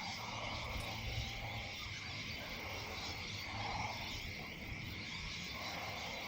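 Evening chorus of frogs and insects: a steady high insect trill runs under soft croaking calls that recur every second or two.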